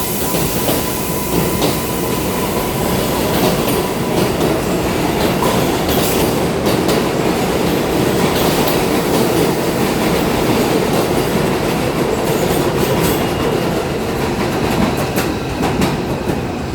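New York City subway train running over elevated track, its wheels clacking over rail joints with a steady rumble and a faint, thin squeal at times.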